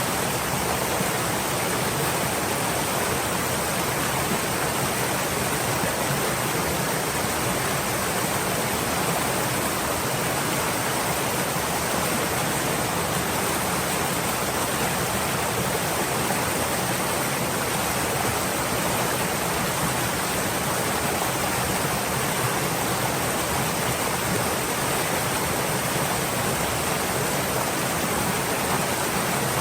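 Flowing stream: steady, even rush of running water with no changes.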